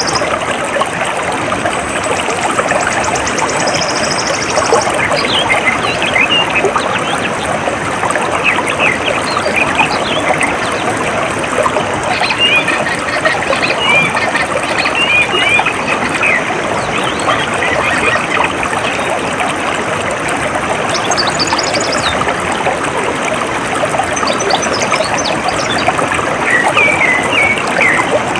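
Water trickling and flowing steadily in a small stream, with birds chirping now and then over it and a high, rapid trill during the first few seconds.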